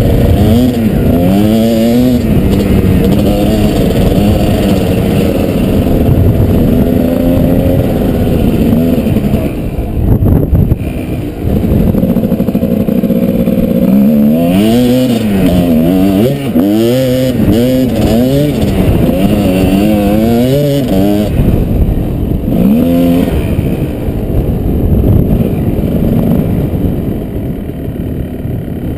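Kawasaki KDX220 single-cylinder two-stroke dirt bike engine under riding load, its pitch rising and falling over and over as the throttle is worked on and off, busiest about halfway through and easing off near the end.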